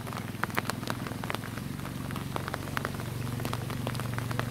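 Rain falling steadily, with sharp drops pattering close to the microphone, over a low, steady, finely pulsing drone.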